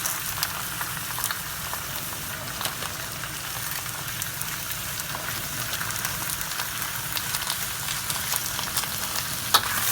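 Bok choy sizzling and crackling in a very hot wok of oil, being seared. The sizzle stays steady and is dotted with small pops, with a couple of louder pops near the end.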